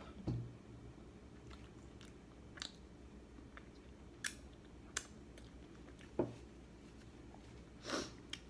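Faint chewing of pizza, with scattered sharp mouth clicks and smacks. A finger is sucked clean about four seconds in, and a paper napkin rustles near the end.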